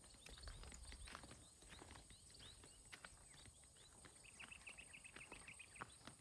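Faint footsteps of a person walking on a farm path, with irregular soft steps and crunches. Short high falling chirps come in throughout, thickest about four seconds in, over a steady high-pitched hum.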